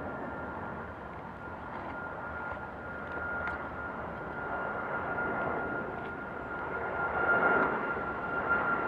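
Jet airliner engines running: a steady high whine over a rushing roar that swells louder near the end.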